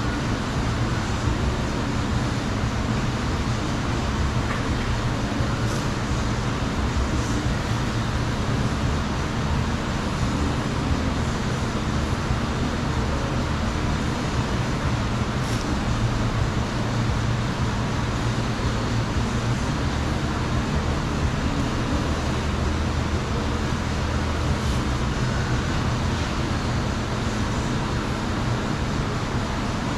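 Steady mechanical running noise: a continuous low hum under an even rushing hiss, with a few faint ticks.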